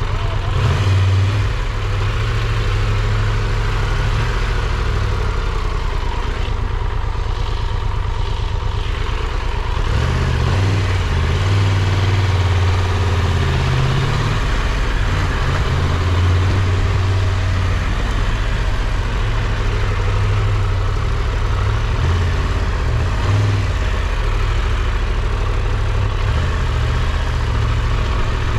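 Triumph Tiger 1200 Rally Pro's three-cylinder engine running steadily at low revs.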